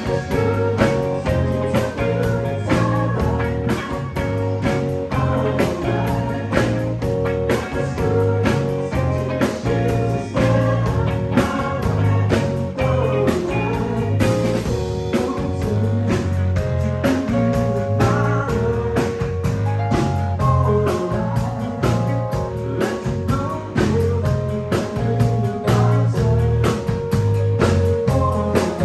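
Live band playing blues-rock with electric guitar to the fore over a steady drum beat.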